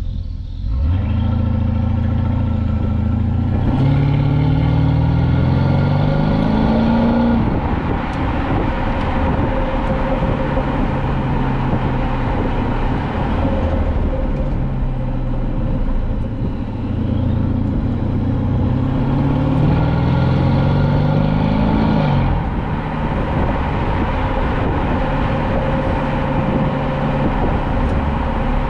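Twin-turbo V8 of a Mercedes-Benz S550 with its exhaust resonators deleted, pulling hard twice. Each time the engine note climbs steadily in pitch for several seconds, then drops away suddenly, and it runs at a steadier pitch in between and afterwards.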